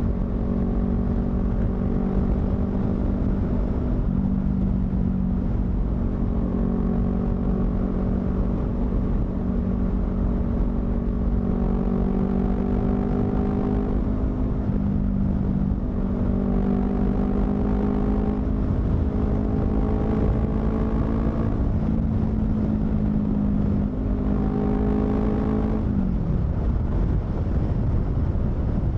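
Honda CBR250RR parallel-twin engine with a modified exhaust, running under way. Its pitch climbs several times as the bike pulls through the revs, then falls near the end as it backs off.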